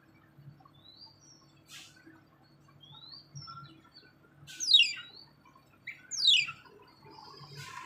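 A bird calling: a few short rising chirps, then two loud, quickly falling calls. A rushing noise starts near the end.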